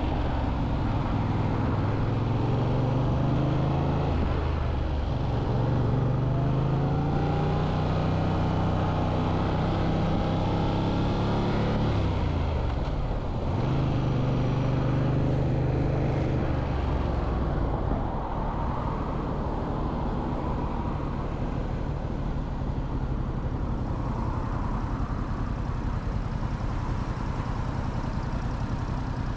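Motorcycle engine running on the road, its pitch climbing with the throttle, falling sharply about twelve seconds in and picking up again. From about eighteen seconds it runs quieter and steadier.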